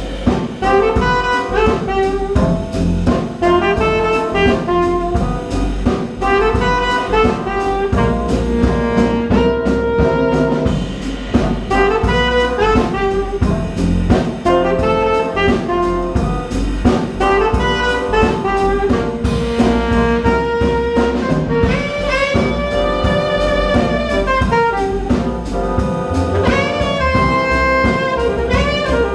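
Live blues band playing an instrumental break: a melodic lead solo over bass and drums, with no singing.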